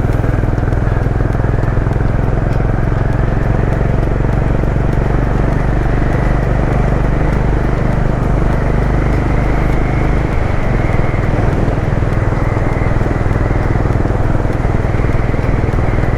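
Motorcycle engine running steadily while riding, with a constant road and wind noise.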